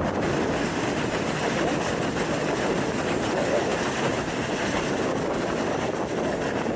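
A New York City subway 7 train running on its track, a steady, even noise of wheels on rails.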